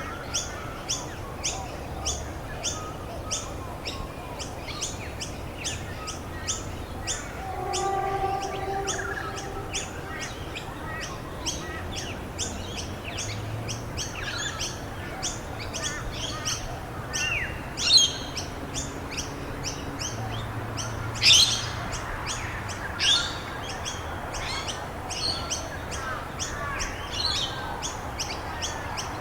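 Songbirds chirping: one bird repeats a short high chirp about two to three times a second throughout, and a couple of louder sweeping calls stand out about two-thirds of the way through.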